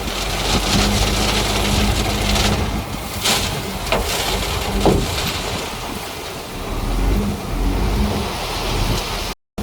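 D58A bulldozer's diesel engine running steadily under a broad rushing noise, with a couple of sharp metallic clanks in the middle. The sound drops out for a moment near the end.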